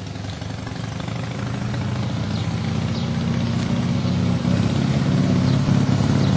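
Motorcycle engine running at a steady pitch, growing steadily louder as it comes closer.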